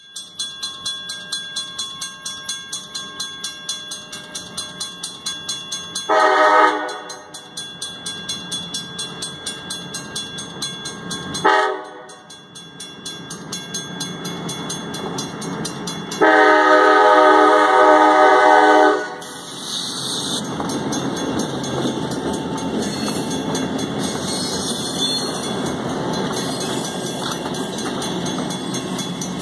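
A bell ringing rapidly and steadily, then a diesel locomotive's air horn sounding three blasts: a short one about six seconds in, a very brief one about five seconds later, and a long one near the middle. After the horn, the passenger cars roll past with a steady rumble.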